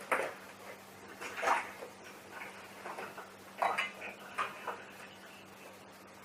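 Clinks and knocks of hard kitchen items being handled and set down, four louder ones spread over the first few seconds, over a faint steady hum.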